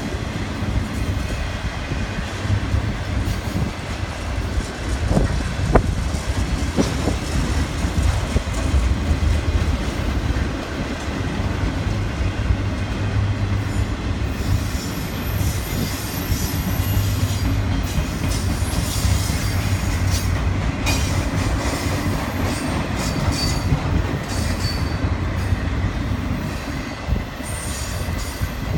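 Autorack freight cars rolling past on steel rails: a steady rumble of wheels, with clicks from the rail joints and occasional thin, high wheel squeals.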